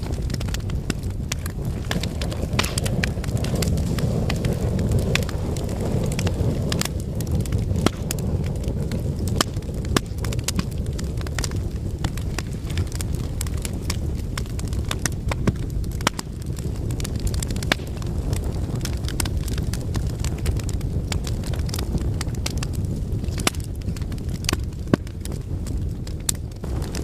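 Fire crackling in a fireplace: a steady low rumble of flames with frequent small crackles and occasional sharper pops.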